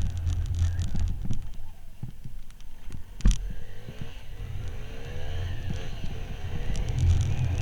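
Motorcycle running while riding, with its engine hum and road noise, easing off through the middle and picking up again near the end. A single sharp knock sounds about three seconds in.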